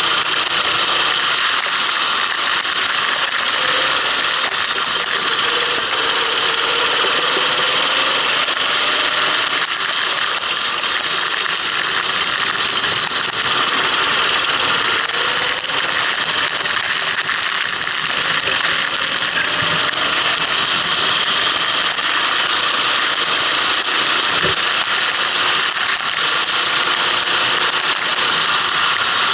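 Kart engine running on a lap, its pitch rising and falling gently, under a steady loud hiss.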